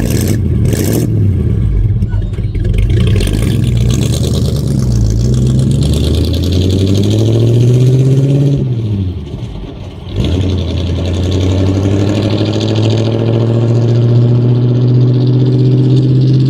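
1950 Ford F1's flathead V8 engine pulling away under throttle. The revs climb, fall away sharply around nine to ten seconds in at a gear change, then climb steadily again in the next gear. A couple of knocks come right at the start.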